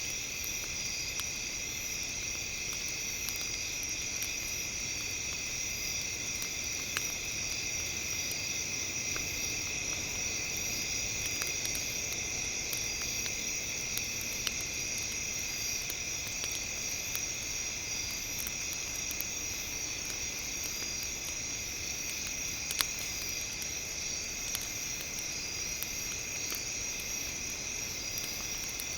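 A steady high-pitched drone that holds even throughout and is the loudest sound. Under it, a campfire crackles, with a handful of sharp pops.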